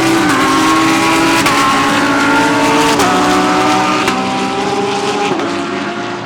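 GT3 race cars accelerating past at full throttle. Their engine notes drop sharply in pitch at each upshift, about every second or so, with several cars overlapping.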